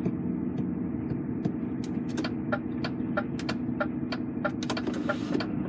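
Truck engine running with a steady low drone, heard from inside the cab. From about two seconds in, quick irregular clicks or rattles come several times a second over it.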